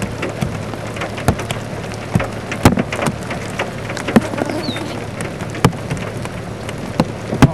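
Scattered large raindrops striking close to the microphone: irregular sharp taps, several a second, over steady rain hiss and a low hum.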